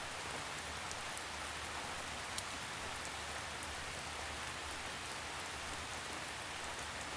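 Steady forest rain, an even patter with an occasional single drop ticking out.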